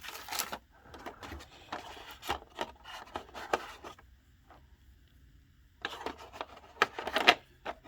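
Parts of a laser-cut wooden model kit and their packaging being handled: light knocks, taps and rubbing in two spells, with a pause of about two seconds in the middle.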